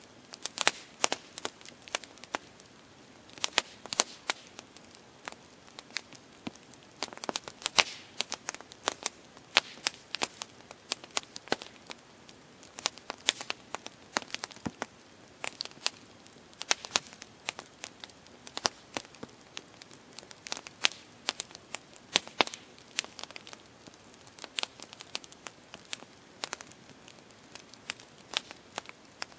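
Campfire crackling: irregular sharp pops and snaps of burning wood, several a second, over a soft steady hiss.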